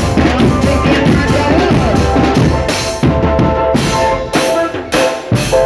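Marching drum band playing: bass drums and snare drums beating a steady rhythm, with a sustained melody line entering about halfway through and sharp accented hits near the end.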